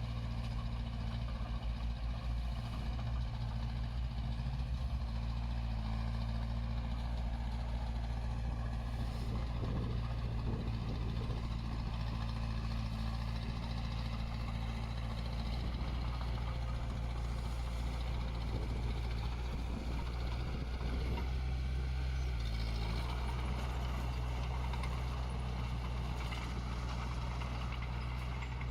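Diesel engine of heavy earthmoving equipment running steadily under work, its low hum shifting in pitch near the end.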